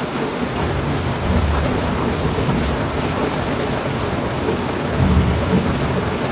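Heavy rain falling steadily, with low rumbles of thunder swelling about a second in and again about five seconds in.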